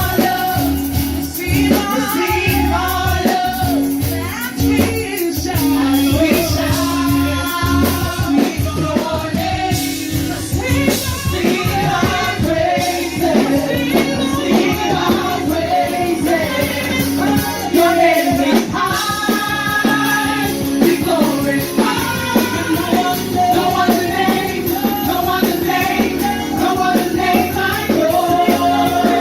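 Live worship music: a band with sung vocals and a tambourine shaken in steady rhythm.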